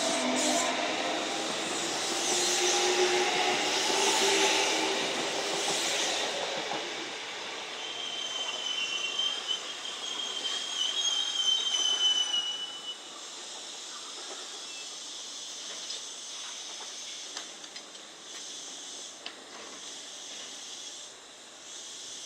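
Kintetsu electric train moving through the station: a humming motor tone in the first few seconds, then a high, wavering wheel squeal from about eight to twelve seconds in, fading to a quieter steady hiss.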